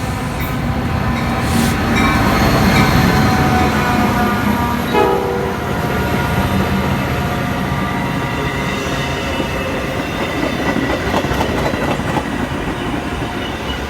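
Metra diesel commuter train pulling in, running loud and steady, with its horn sounding.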